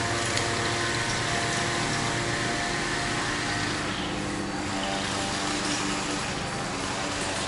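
Loud, steady mechanical drone made of several steady tones over a rushing noise.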